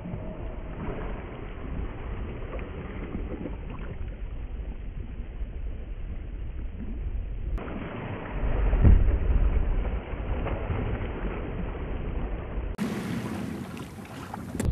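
Wind buffeting the microphone, with water washing around a small sailboat under way. The low wind rumble swells louder about halfway through.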